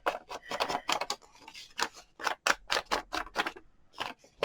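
Irregular light clicks and taps, a few a second, of craft supplies being handled on a work table.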